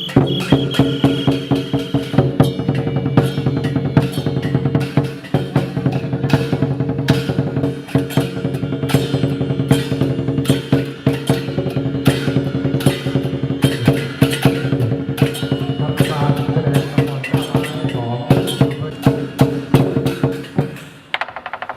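Chinese drum-and-percussion ensemble playing live for a dragon dance: a dense, rapid run of drum strikes over a sustained ringing tone, easing off near the end.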